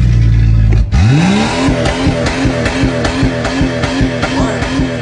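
A car engine running with a steady low hum that cuts off about a second in, then revs up with a rising pitch. Music with a regular pulsing beat takes over after that.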